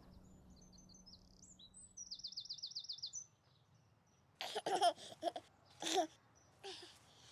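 Birds chirping, with a fast high trill about two to three seconds in. From about four and a half seconds, short bursts of baby-like laughing and babbling.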